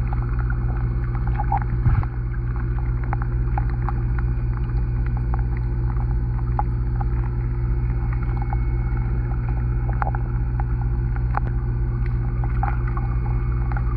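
Underwater sound picked up by a camera submerged in a garden pond: a steady low hum with scattered faint clicks, and a single bump about two seconds in.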